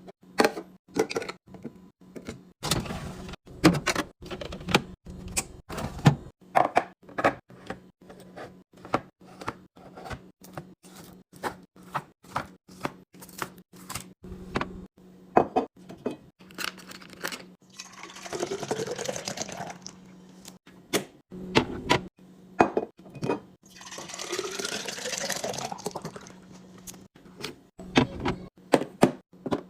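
Plastic and glass containers clicking and knocking as they are handled and set down, with liquid poured into a container twice in the second half, the pitch of the pour rising as it fills. A steady low hum runs underneath.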